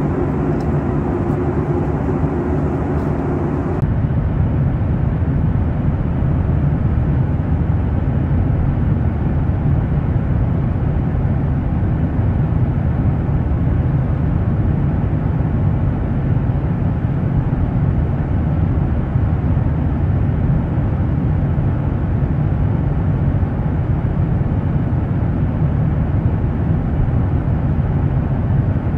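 Steady cabin noise of a Boeing 737-900ER airliner: jet engine and airflow rumble, heaviest in the low range. About four seconds in the sound changes abruptly, a steady hum dropping out, and the low rumble carries on.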